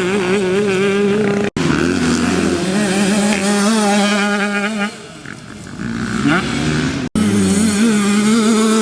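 85cc two-stroke motocross bike engine revving hard, its pitch wavering and holding high as the rider works the throttle, easing lower with short throttle blips in the middle. The sound cuts out for an instant twice, a little after the start and near the end.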